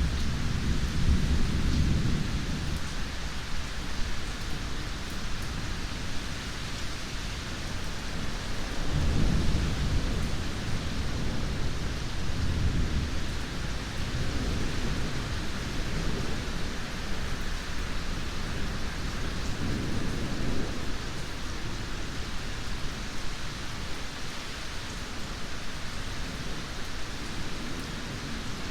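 Steady heavy rain with rolling thunder: low rumbles at the start, about nine seconds in, and again around twenty seconds, fading toward the end.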